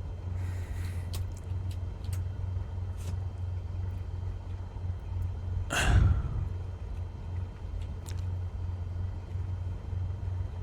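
A steady low rumble, with a brief louder bump about six seconds in.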